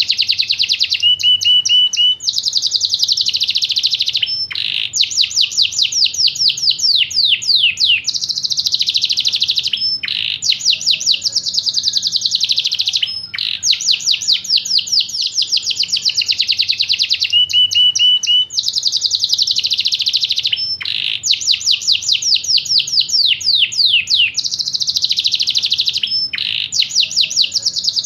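Yorkshire canary singing a continuous song of rapid trills: fast runs of repeated high notes in phrases a few seconds long, separated by brief breaks.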